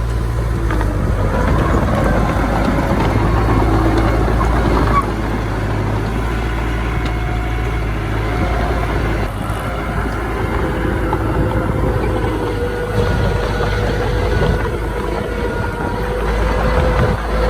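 Diesel engines of earthmoving machinery, a bulldozer and dump trucks, running steadily at work: a continuous low rumble with a steady whine above it.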